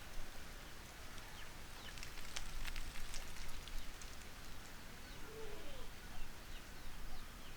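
Farmyard animal sounds: scattered faint high chirps, a burst of crackling clicks about two to three and a half seconds in, and a single short low call a little after five seconds.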